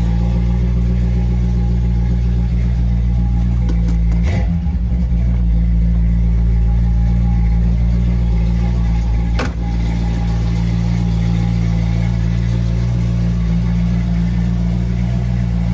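Chevrolet 350 V8 of a 1969 Camaro idling steadily with a low, even rumble. Two brief clicks break it about four and nine and a half seconds in.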